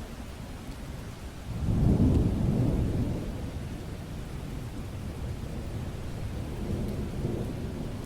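Steady rain with a low rumble of thunder that swells about a second and a half in and fades over the next two seconds, then a softer rumble near the end.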